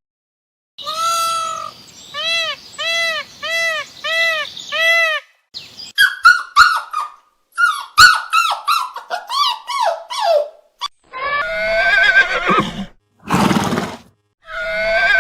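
A sequence of different animal calls: first five short, evenly repeated pitched calls, then a string of falling calls broken by sharp clicks, then horses neighing with a wavering, trembling whinny near the end.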